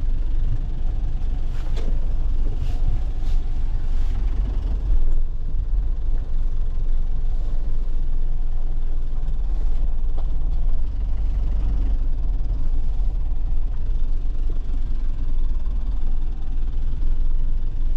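2001 Nissan Cabstar light truck's engine running steadily, heard from inside the cab, with a deep low drone. A few light knocks or rattles come in the first few seconds.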